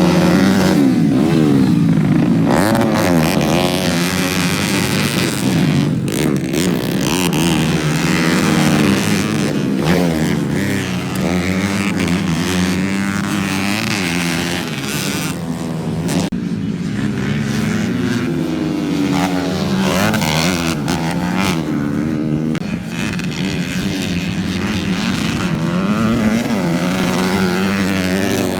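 Several motocross bikes racing, their engines overlapping and repeatedly revving up and dropping back.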